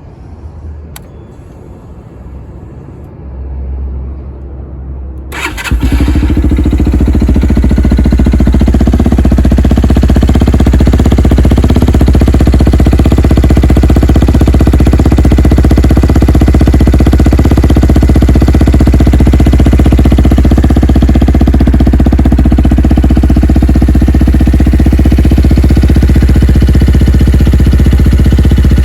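CF Moto Papio motorcycle's single-cylinder engine with a Yoshimura RS-9 exhaust: a click about a second in, a brief low rumble, then the engine starts about five seconds in and settles into a loud, steady idle.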